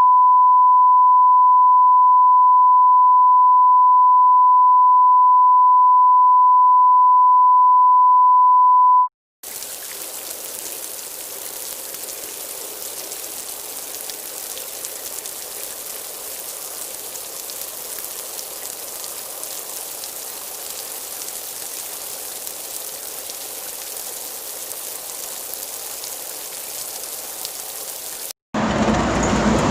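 A loud, steady, single-pitched beep at about 1 kHz, like a censor bleep, runs for about nine seconds and cuts off suddenly. After a brief gap comes a steady hiss of falling rain for about nineteen seconds. A louder, different sound effect starts near the end.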